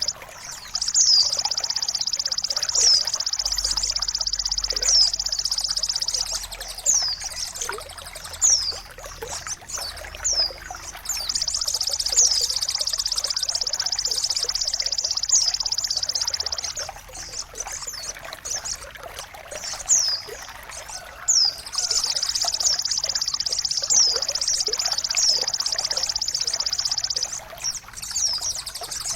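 Songbird song-tutoring (masteran) recording: long, high, buzzing trills of about five seconds, three times, with quick downward-sliding whistled notes in between, over a steady trickle of running water.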